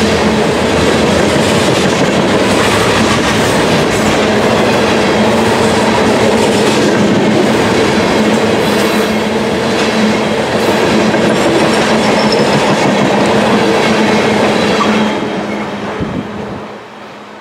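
A freight train of tank cars rolling past: a steady rumble of steel wheels on rail with a running hum and frequent wheel clicks. It fades away about fifteen seconds in as the last car passes.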